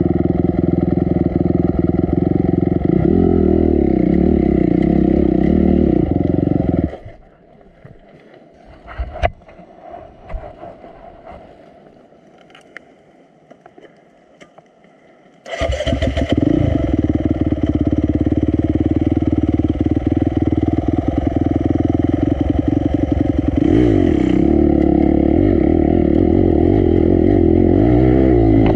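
Honda CRF250 dirt bike's single-cylinder four-stroke engine running, then stopping abruptly about seven seconds in. A few knocks and clatters follow in the quiet, then the engine starts again about halfway through and runs on, its revs rising near the end.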